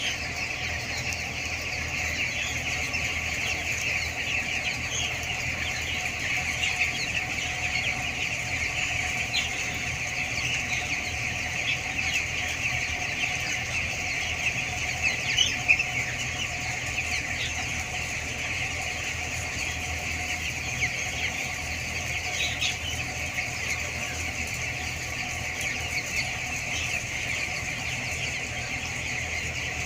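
A large flock of two-week-old broiler chicks calling continuously in a dense, overlapping chorus of high chirps, over a steady low hum.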